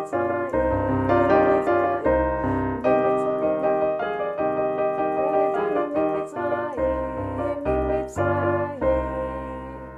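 Electronic keyboard playing a nigun melody over chords and repeated bass notes; it dies away near the end.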